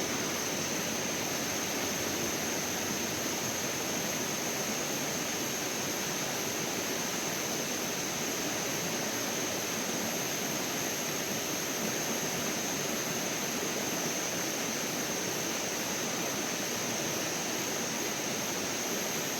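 Steady rushing of a stream or river, with a thin, steady high-pitched whine above it.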